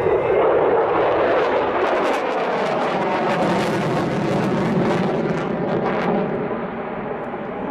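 Fixed-wing aircraft flying past, its engine noise a steady rush with bands that sweep in pitch as it goes by, easing off a little near the end.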